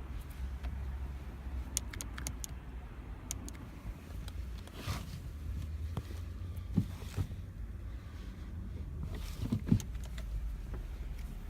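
Steady low rumble of a car, with a quick run of light clicks about two seconds in and two short dull thumps later on.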